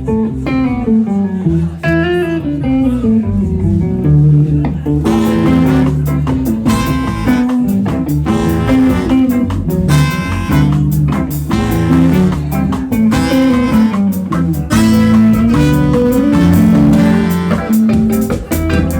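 A band playing live: guitar and bass lines, with the sound filling out to the full band about five seconds in.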